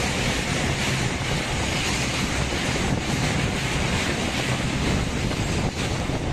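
Passenger coach running along the track: steady rumble of wheels on rail, with wind buffeting the microphone through an open door or window.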